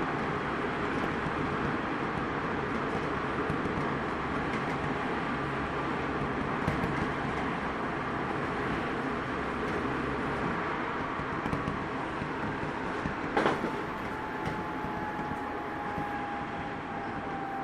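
Running noise inside an Odakyu 2000 series motor car with a Mitsubishi Si-IGBT VVVF inverter and WN drive: wheels rumbling on the rails under the traction motor's whine, which is louder than usual on this particular car. A sharp knock comes about two-thirds through, after which the whine slowly falls in pitch.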